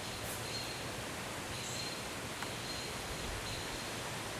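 Woodland ambience: a steady background hiss with faint, short high-pitched calls recurring about once a second, and a single soft click about halfway through.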